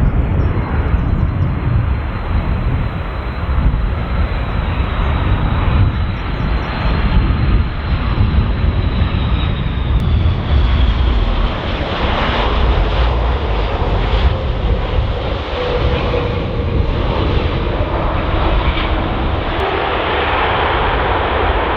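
Airbus A330-200 twin jet engines on a landing, with a deep rumble and a high whine that falls in pitch as the airliner passes about eight to ten seconds in, followed by a broader, louder engine roar.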